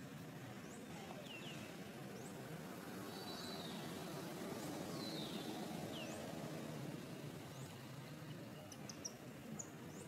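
Small birds chirping now and then, short high calls, over a steady low background rumble. A few sharp ticks near the end.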